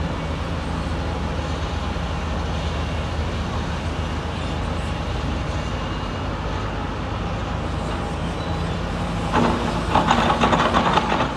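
Diesel engine of heavy construction machinery running steadily. About nine seconds in the sound gets louder, with a dense clattering over it.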